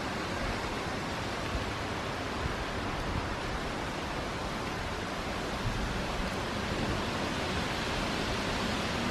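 Steady rushing wind as a thunderstorm closes in.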